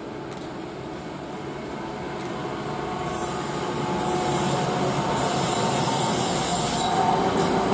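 NJ Transit Arrow III electric multiple unit running past on the near track, a steady rumble of wheels on rail that grows louder as the cars come alongside, with a hiss building about three seconds in.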